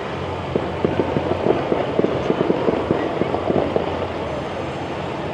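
A rapid, irregular run of clacks lasting about three seconds, over a steady background din: a chairlift chair's grip rolling across a tower's sheave train.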